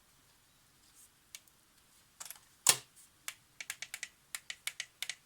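Small sharp mechanical clicks from a Polaroid SX-70 camera's mechanism being worked by hand: a few faint clicks, one louder click about halfway, then a quick run of light clicks, several a second. The camera is misbehaving and seems stuck.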